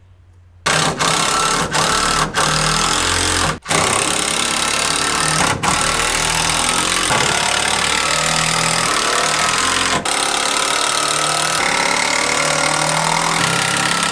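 Power tool running loudly during woodworking, broken by several brief, abrupt dropouts.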